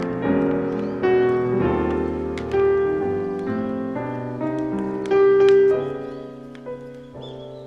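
Background piano music, slow and gentle, fading down near the end.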